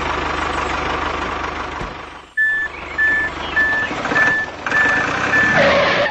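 A truck engine runs. Then, from about two and a half seconds in, a reversing alarm beeps six times at an even pace over the engine noise.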